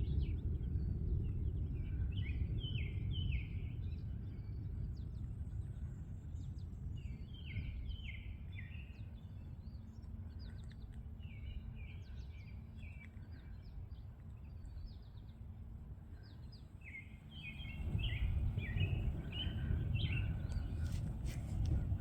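Wind rumbling on the microphone, easing off mid-way and gusting up again near the end, while a songbird sings short phrases of a few quick notes, about four times.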